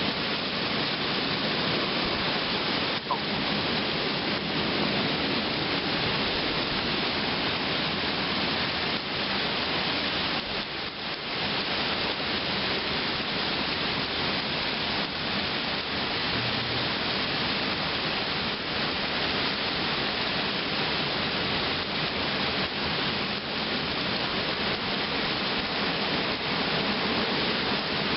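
Heavy thunderstorm rain pouring down, a steady dense hiss.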